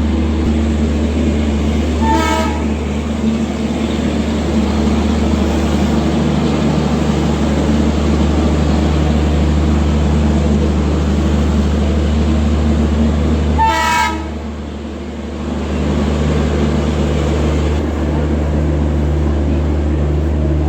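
Train at close range: a steady low running drone, with two short high horn toots, one about two seconds in and one near fourteen seconds.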